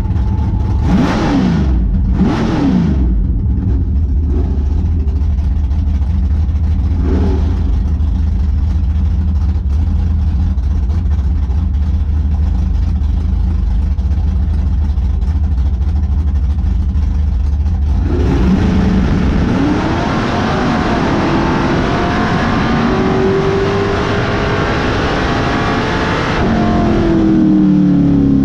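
Drag race car engine heard from inside the cockpit: it idles with a low rumble and is blipped briefly twice near the start and once more a few seconds later. At about eighteen seconds it goes to full throttle for a pass, pulling for about eight seconds, then lifts off and falls in pitch as the car slows near the end.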